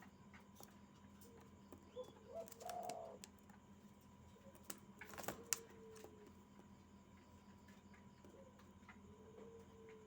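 Barbary dove giving soft, low coos three times from its nest, with a short run of sharp clicks and rustling about five seconds in.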